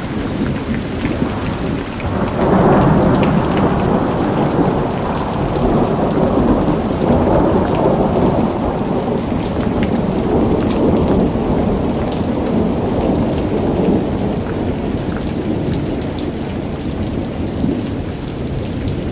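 Steady heavy rain on hard surfaces with a long rolling peal of thunder. The thunder swells up about two seconds in and rumbles on for several seconds before slowly dying away under the rain.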